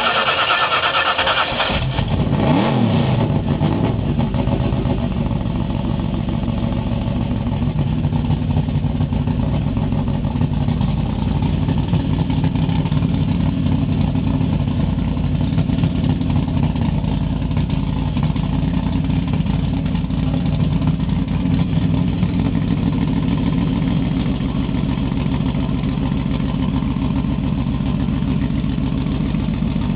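Mini drag car's engine cranking on the starter, catching about two seconds in with a short rev, then idling steadily.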